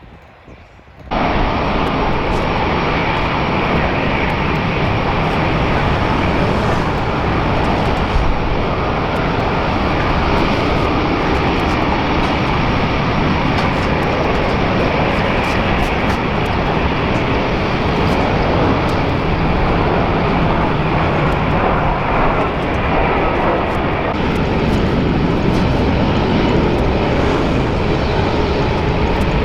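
Airliner engines running loud and steady at close range, starting abruptly about a second in and holding without a break.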